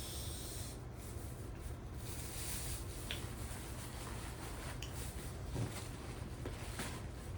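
Quiet rustling and rubbing of packets and plastic being handled, with a few faint clicks, over a steady low hum.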